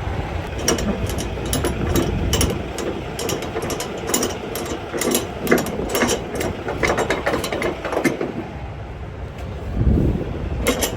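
Ratchet clicking as a flatbed tie-down strap is cranked tight, in irregular runs of sharp clicks.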